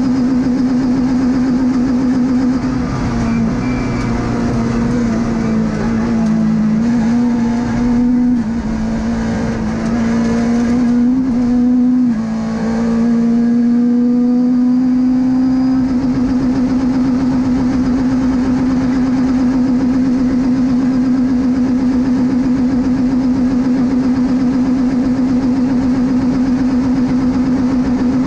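Peugeot 206 rally car's engine, heard from inside the cabin, running hard at high revs. The pitch dips and steps briefly a few times in the first half, then holds one steady note.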